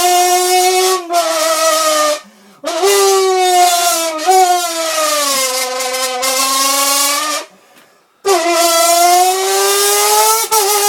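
A man's voiced car-engine impression blown through a can as a mock exhaust: a buzzy, hissy drone in long blasts with short breaks about 2 and 7.5 seconds in. The pitch sags and climbs again like revs rising and falling.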